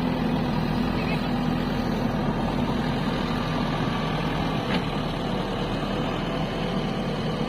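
Heavy diesel engine running steadily at a low, even pitch, its hum easing slightly about halfway through.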